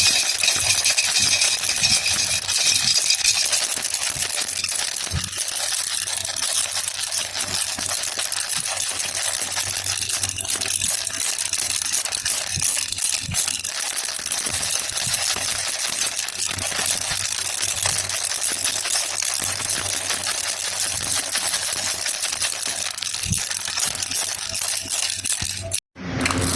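Baby rattle (jhunjhuna) shaken continuously: a dense, steady clinking rattle, cut off by a brief silence near the end.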